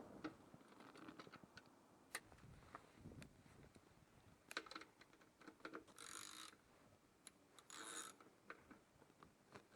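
Faint scattered clicks and light knocks of hands working on a motorcycle, with two short hissing bursts about six and eight seconds in; the engine is not running.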